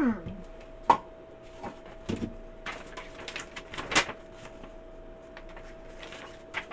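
Plastic parts of a Keurig K-Cafe coffee maker being handled: a scatter of clicks and knocks, busiest around three to four seconds in, over a steady faint hum.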